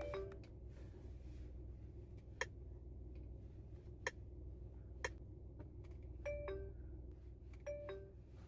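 A short two-note falling chime sounds twice near the end, over a low steady hum with a few sharp clicks.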